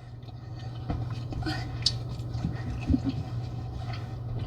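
Small clicks, knocks and crinkles of seafood being handled and eaten at the table, over a steady low hum.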